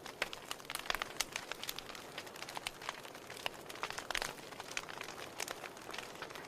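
Wood fire in a fireplace crackling, with many irregular sharp pops over a soft steady hiss of burning.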